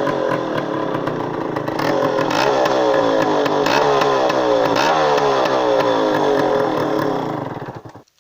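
Yamaha RX135's two-stroke single-cylinder engine running and being revved repeatedly, its pitch rising and falling again and again. It dies away just before the end.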